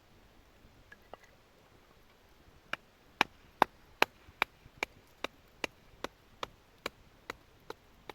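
Batoning firewood: a wooden baton knocks the spine of a knife driven into a split of wood, about two or three sharp knocks a second, starting about three seconds in and growing fainter toward the end.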